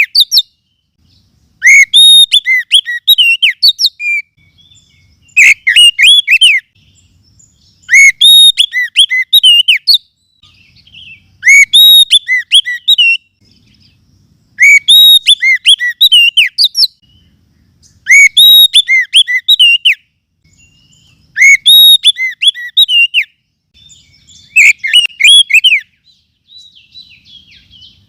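Oriental magpie-robin song from a lure-call recording: loud phrases of quick sweeping, whistled notes, each about two seconds long. About eight phrases repeat at an even pace with short pauses between them.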